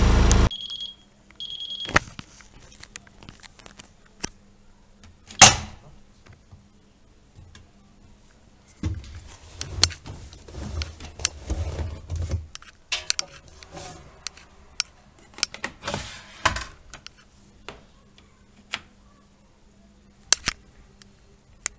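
Miele Softtronic W3923 washing machine at the end of its programme: the running machine cuts off, then two short high beeps signal the end of the cycle. Scattered clicks and knocks follow, the loudest about five seconds in, with bursts of rustling, handling noise in the middle.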